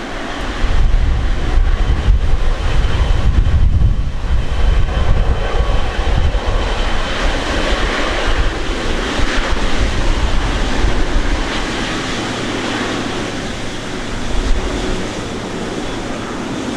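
Boeing 777 jet engine noise, a steady roar with a faint high whine, while strong gusty wind buffets the microphone with a deep rumble during the first half.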